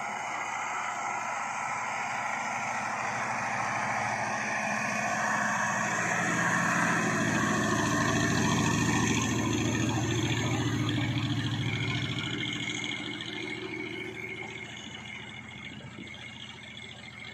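Heavy diesel truck engine running under load, growing louder to a peak about halfway through, then fading as it moves away.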